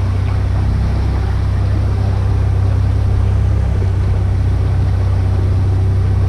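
Boat's outboard motor running steadily, a loud, low, even drone.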